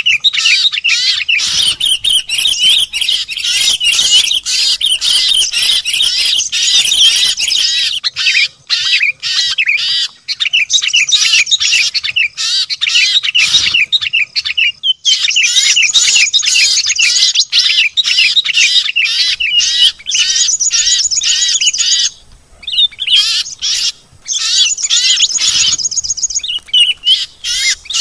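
A dense, noisy chorus of many small songbirds chirping and twittering at once, with fast high trills breaking in several times. It is a mixed-species bird-lure (pikat) recording.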